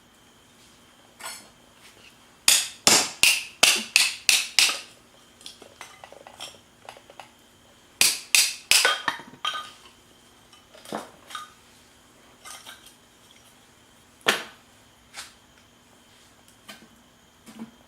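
Clinking of a utensil against dishes or glassware: two quick runs of about six to eight sharp strikes, then scattered lighter ticks and one more clink.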